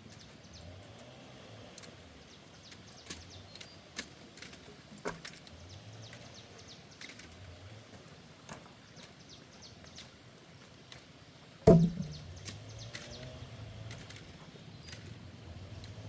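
Scattered light snaps and cracks of branches and wood being handled, with one heavy thud of wood striking the ground about three-quarters of the way through.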